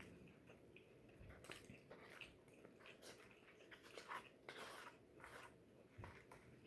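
Faint chewing and mouth sounds of someone eating, a scatter of soft smacks and clicks.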